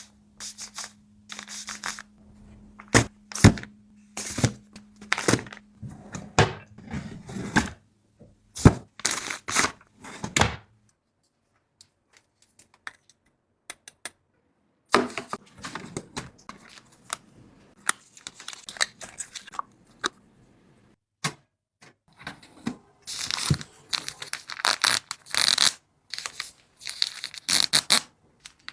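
Packaging being handled and opened: wrappers tearing and crinkling, with knocks of items and containers being set down. The sound stops for a few seconds in the middle, and louder crinkling bursts come near the end.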